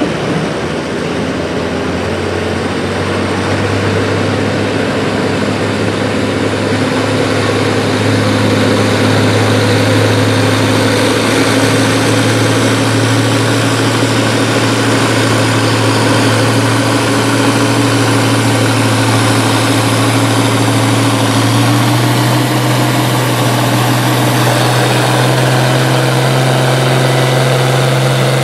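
A pulling vehicle's engine runs loudly and steadily, and its pitch steps up about three-quarters of the way through.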